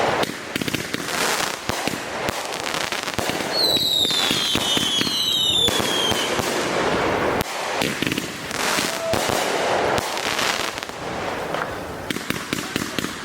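Consumer fireworks going off in quick succession, a dense run of pops, bangs and crackling. Several whistles with a falling pitch sound together from about three and a half to six seconds in.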